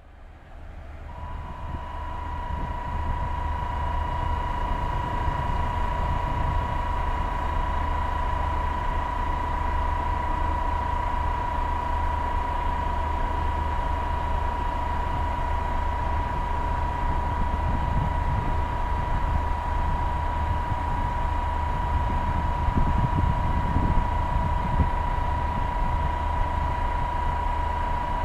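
KiHa 37 diesel railcar engine running with a steady low rumble and a constant high-pitched whine over it. The engine noise swells a little about three-quarters of the way through.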